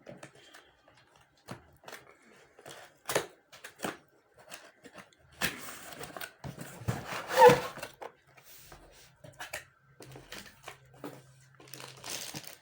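Plastic packaging crinkling and rustling as a robot vacuum cleaner is unpacked and handled, with scattered knocks and rustles. The loudest rustle and scrape comes about seven seconds in.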